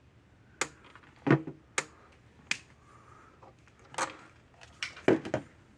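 Electric fence charger ticking as it fires its pulses into a voltage tester: sharp clicks, about one to two a second and not quite evenly spaced, with the charger putting out just under 9,000 volts.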